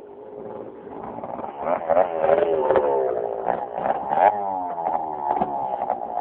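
Suzuki DS80 dirt bike's two-stroke single-cylinder engine revving, growing louder over the first two seconds as it comes closer, its pitch repeatedly falling and rising with the throttle.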